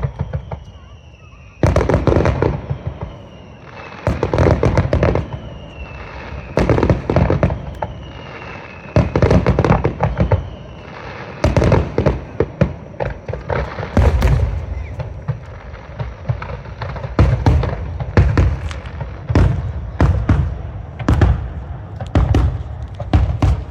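Fireworks display: aerial shells bursting one after another in deep booms with crackling, coming more often in the second half. Several falling whistles sound in the first ten seconds or so.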